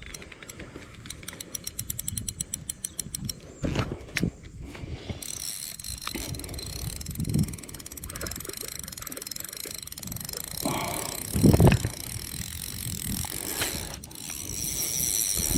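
Fishing reel ratcheting under the pull of a large hooked carp: a fast, even run of clicks for about the first five seconds, then softer reel noise with a few louder knocks.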